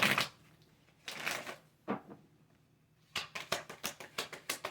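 A deck of tarot cards being shuffled by hand: a short rustle about a second in, then from about three seconds in a fast run of card clicks, about seven a second.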